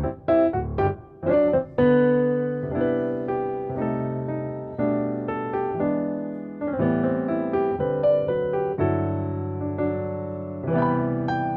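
Background piano music: a light classical-style tune, with quick notes in the first couple of seconds, then slower held chords.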